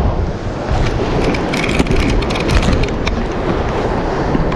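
Surf washing over shoreline rocks with wind buffeting the microphone, with a fizzing crackle of whitewater between about one and three seconds in.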